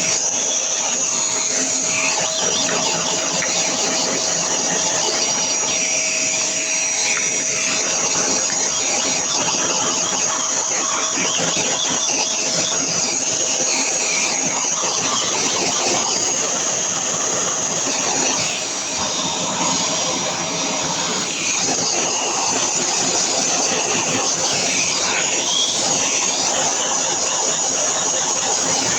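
A motor-driven stream of air running steadily: a continuous loud rush with a thin high whine, briefly dipping twice in the second half.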